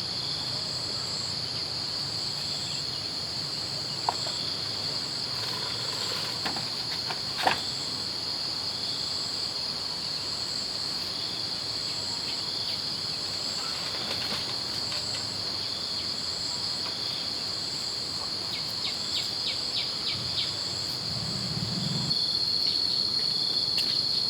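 A chorus of insects: a steady high-pitched drone with a pulsing trill above and below it. A couple of short knocks come through about four and seven and a half seconds in.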